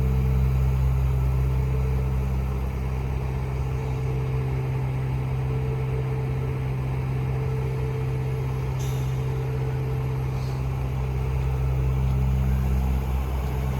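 Heavy diesel truck engine idling steadily, with a brief air hiss about nine seconds in.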